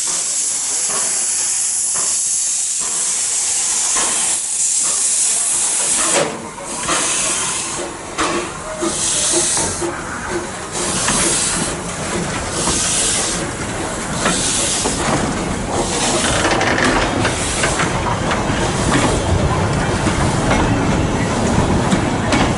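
Steam locomotive hissing steadily, then starting to pull away. Exhaust chuffs come about every two seconds and slowly quicken, over a growing rumble of the rolling train.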